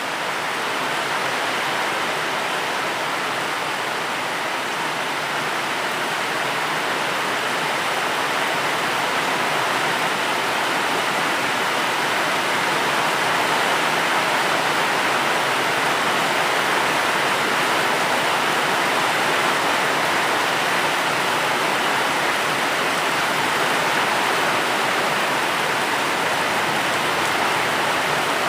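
Steady rain: a dense, even hiss of falling water with no single drops standing out, growing slightly louder over the first ten seconds.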